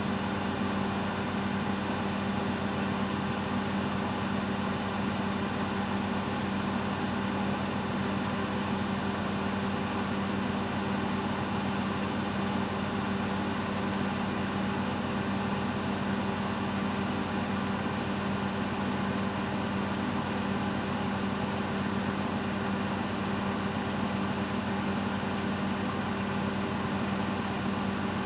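Miele Novotronic W822 washing machine in its final spin, running steadily at speed with an even motor hum over the rushing of the drum.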